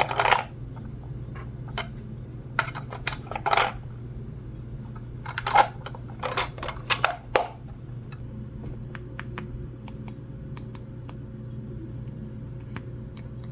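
Small plastic toy pieces being handled and set down: clusters of light clicks and clatters in the first half, then sparse single ticks, over a steady low hum.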